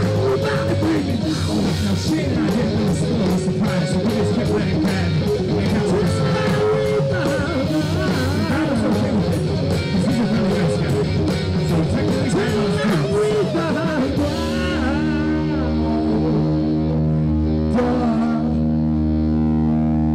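Live rock band playing with electric guitar and drums. About fourteen seconds in, the drums stop and a chord is held, ringing steadily.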